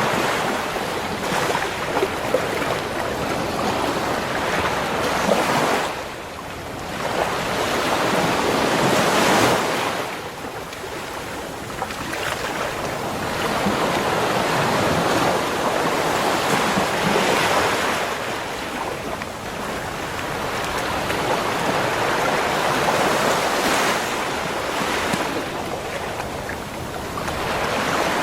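Sea waves washing onto a beach shore, a continuous surf noise that swells and recedes every few seconds, with a sharper dip near 6 s and again near 10 s. Some wind buffeting on the microphone.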